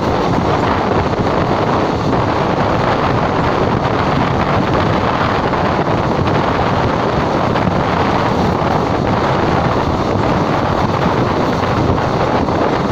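Loud, steady wind rush buffeting the microphone, held out of a moving passenger train, with the train's running noise underneath.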